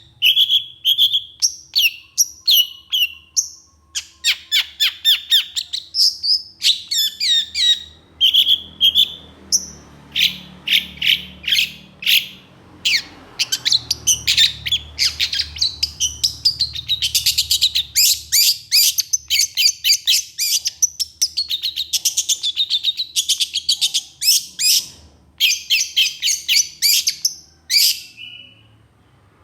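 Long-tailed shrike (cendet) singing a rapid, rough chatter: quick runs of sharp, clipped notes in bursts with short pauses between them. It falls silent briefly near the end.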